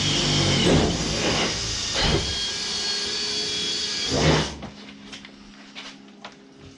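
A motor-driven machine, a vacuum or power tool, running steadily, cutting off about four and a half seconds in, followed by faint crackling.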